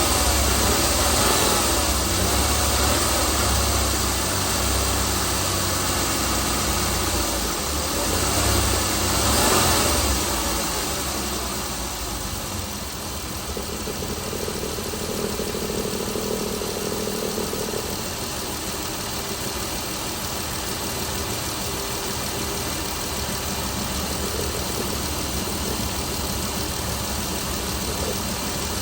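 Chrysler Pentastar 3.6L V6 engine running, louder for roughly the first ten seconds, then settling to a steady, quieter idle.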